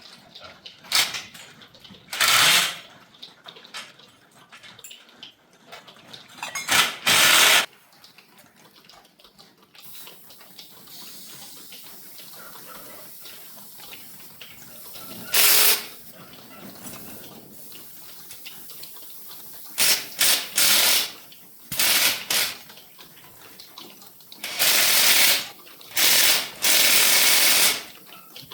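Repeated short bursts of hissing spray, about ten in all, some a second or more long, with a fainter steady hiss between them from about ten seconds in.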